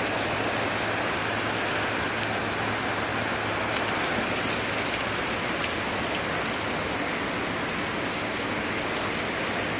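Heavy rain pouring down in a downpour, a steady, even hiss of rain on the ground and surfaces.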